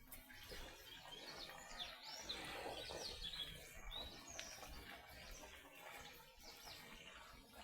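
Small birds chirping faintly, a cluster of quick sliding chirps in the first half, over low background noise.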